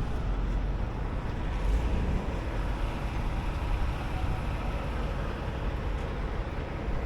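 Semi truck running: a steady low rumble of engine and road noise.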